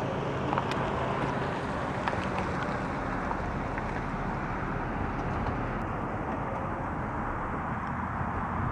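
Steady outdoor background noise, an even rumbling hiss with a few faint clicks.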